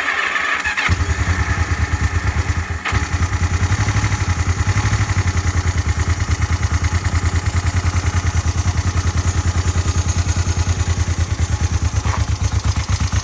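1976 Honda CB500T's parallel-twin engine cold-started on the electric starter with the choke one step from full. It cranks briefly, catches about a second in, and settles into a steady, even idle.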